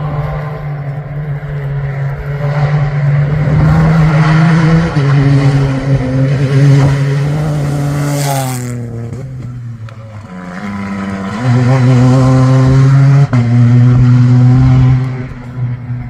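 Rally-raid competition car's engine at full throttle close by, climbing in pitch through gear changes. About eight seconds in there is a short burst of noise and the engine eases off. It then revs hard again through the gears before dropping away near the end.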